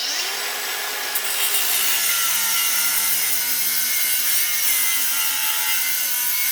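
Power tool cutting into the steel and copper of a water heater element fitting: a steady, loud grinding with a motor tone that wavers as it bites, stopping just after the cut.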